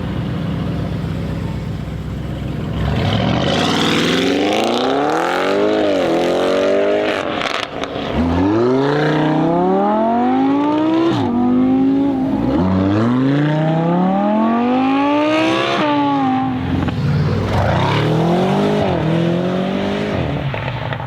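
Tuned Audi RS6 C8's twin-turbo V8, its petrol particulate filter removed, running steadily at first, then pulled hard several times. Each time its pitch climbs over two to three seconds and drops back, with short crackles between the runs.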